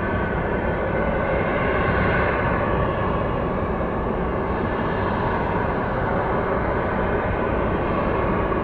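Jet airliner's engines running, a steady loud rumble with a faint high whine on top.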